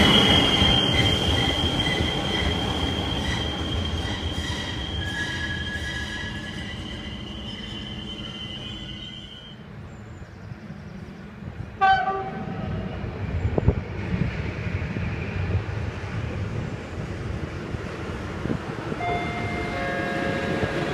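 Departing passenger train's wheels squealing on the rails, a steady high squeal that fades away over about ten seconds. Later a diesel locomotive rumbles closer, with a short sharp tone about twelve seconds in and more squealing tones near the end.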